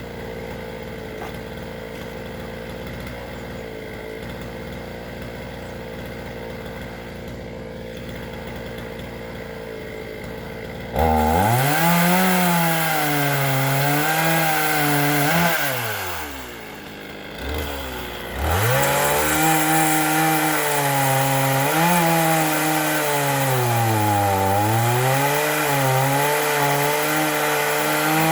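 Chainsaw cutting firewood. A quieter steady hum runs for the first ten seconds or so. Then the saw comes in loud, its pitch sagging and recovering as it works through the wood. It falls away briefly about halfway through, comes back, and sags again as it cuts.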